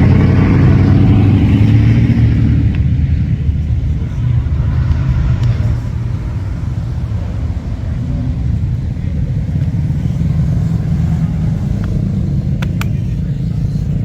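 Cars cruising past at a car show, their engines rumbling. The loudest one passes at the start and fades over the first few seconds, leaving a steadier rumble of traffic.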